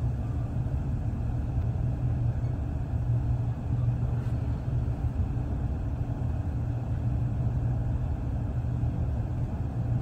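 Inside a moving passenger train carriage: a steady low rumble of the train running along the track.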